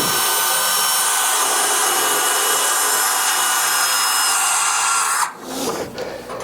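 Electric drill running at steady full speed while boring a hole for a hinge mounting bolt; it stops about five seconds in, followed by quieter handling and rubbing noises.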